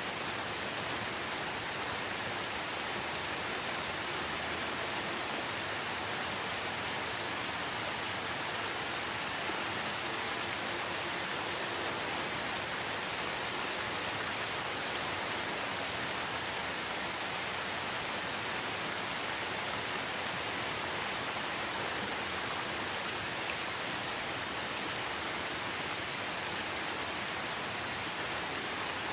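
Steady rainfall: a dense, even hiss of rain falling on surfaces, with no single drops or other sounds standing out.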